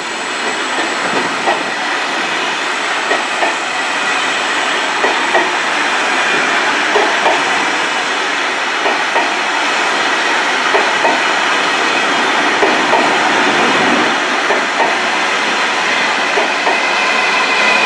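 Eurostar Class 373 electric train pulling slowly out past the platform. Its coaches roll by with a steady rumble, irregular clicks of wheels over rail joints and a faint high whine. The sound grows gradually louder as the train passes.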